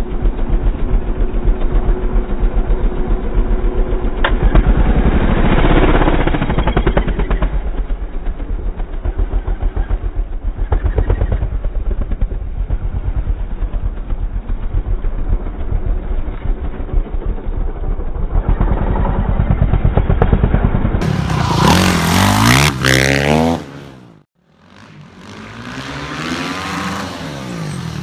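Honda CRF450R supermoto's single-cylinder four-stroke engine running with a steady pulsing beat, then revved in rising and falling sweeps as the bike is ridden through wheelies. Near the end the sound drops away for about a second before the revving picks up again.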